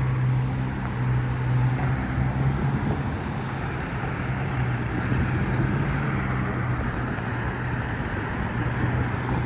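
Street traffic: a steady wash of passing vehicles with a low engine hum that fades out about three seconds in and comes back near the end.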